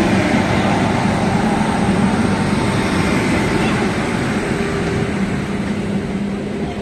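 A train running: a steady, loud rumble with a low hum through it.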